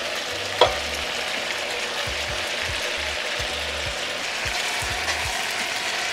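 Chicken thighs and freshly added sliced peppers and onions sizzling in a hot cast iron skillet, a steady hiss, with one sharp clink about half a second in.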